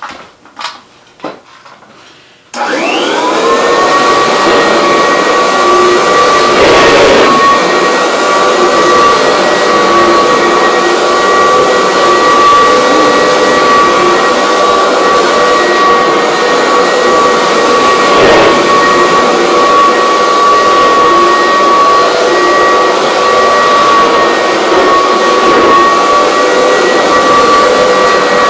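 A few light clicks, then a vacuum cleaner switched on about two and a half seconds in: its motor spins up with a rising whine and settles into a loud, steady whining run.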